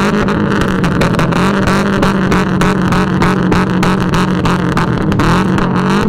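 Car engine held at a constant high rev, with a rapid, irregular crackle of exhaust pops running through it.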